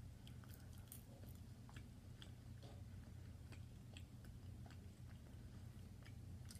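Faint chewing of a mouthful of steak, with soft mouth clicks and smacks scattered through, over a low steady hum.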